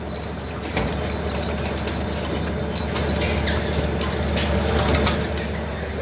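Squid-jigging boat's machinery running steadily: a constant low engine drone with scattered clicks and knocks, and a faint high squeak repeating several times a second.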